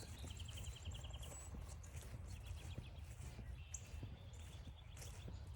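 Footsteps along a trail over a steady low rumble, while a small bird gives a rapid trill of evenly repeated high notes three times.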